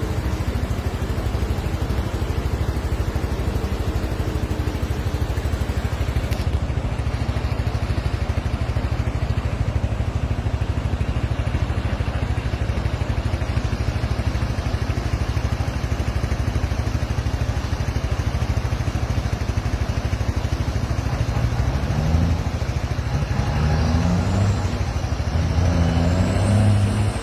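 Swollen, flooded river rushing past after heavy rain, a loud, steady rushing noise heaviest in the bass. Near the end a low pitched sound rises and falls over it.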